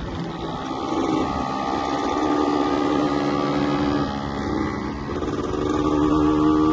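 Yamaha 125ZR's two-stroke single-cylinder engine pulling under load, its pitch climbing steadily. About four seconds in it eases off briefly, then climbs again, louder.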